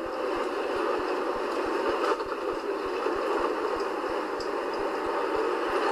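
Scania 143H 450 truck's V8 diesel running steadily, an even, unbroken drone with no rise or fall in pitch.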